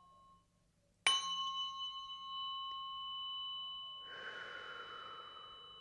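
A tuning fork struck once about a second in, ringing on in a clear steady high tone with fainter overtones and slowly fading. A soft breathy sound joins about four seconds in.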